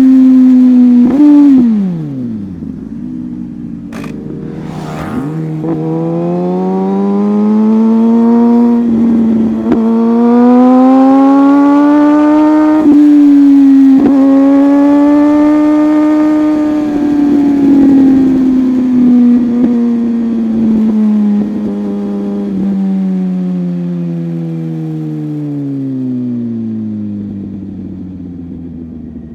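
A sport motorcycle's engine running under way. Its note drops sharply about a second in, then climbs and eases in long, slow swells of throttle and falls away toward the end.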